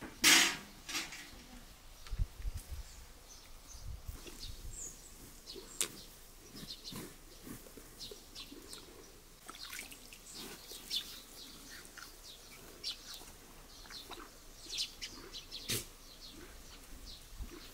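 Scattered small-bird chirps and tweets, with one sharp knock at the very start and a few soft low thuds and clicks.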